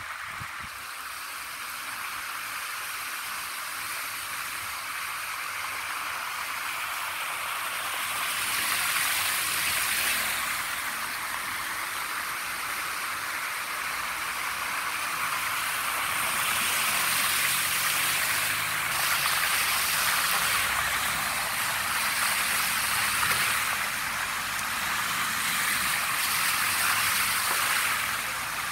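Heavy rain and water running over a flooded street, with cars driving through it; the hiss of tyres through the water swells several times as they pass.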